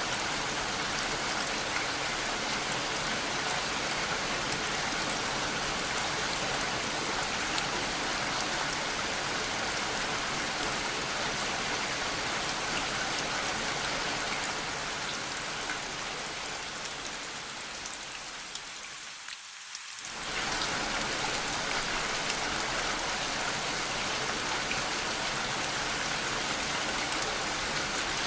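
Steady rain falling, an even hiss of dense drops with fine patter. About two-thirds through it fades down for a few seconds, then comes straight back to full level.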